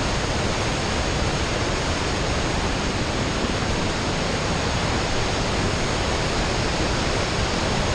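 Waterfall and fast-flowing river water rushing: a steady, even sound with no breaks.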